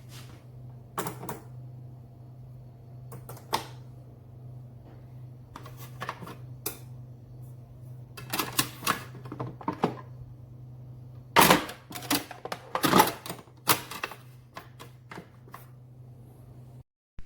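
Scattered clicks and clattering knocks of hard objects being handled, densest in the second half, over a steady low machine hum that cuts off suddenly near the end.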